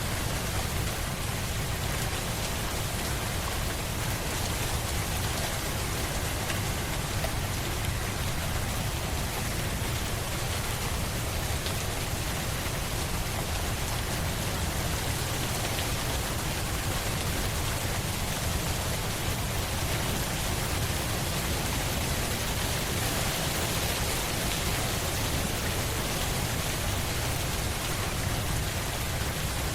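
Steady rain falling, an even hiss of rain on a surface with no single drops or thunder standing out.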